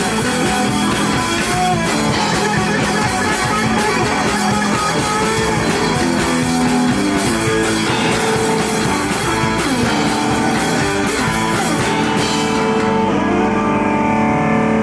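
Live rock band playing, with guitar and drums. Near the end the drums drop out, leaving a held guitar chord ringing.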